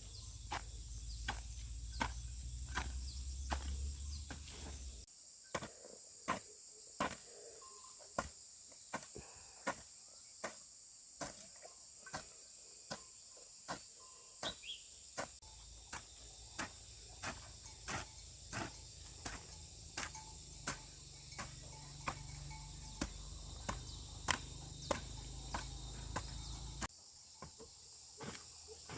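Sharp, evenly spaced knocks, about one and a half a second, with insects shrilling steadily behind them.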